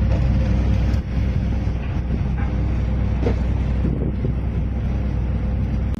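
Fishing boat's engine running with a steady low rumble, with a few faint knocks over it.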